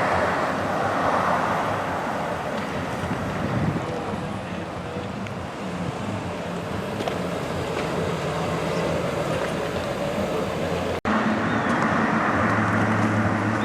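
Car engine idling: a steady low hum over outdoor background noise, with a cut about eleven seconds in, after which the hum is steadier and stronger.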